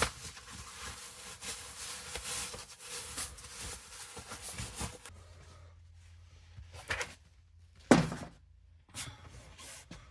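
Rustling and rubbing for about five seconds, then a few knocks and one sharp thump about eight seconds in, in a small enclosed space.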